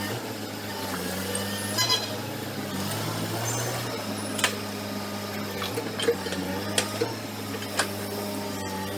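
Heavy earthmoving machine's diesel engine running steadily, with several sharp metallic clanks of bucket and steel. A brief high squeal comes near two seconds in.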